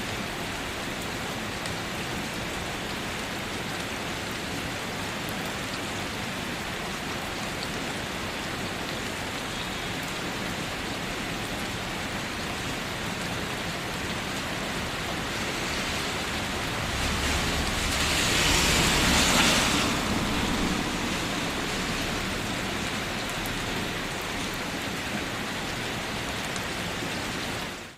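Steady rain falling with the rush of a waterfall, an even hiss. About two-thirds through it swells louder for a few seconds with a deeper rumble underneath, then settles back.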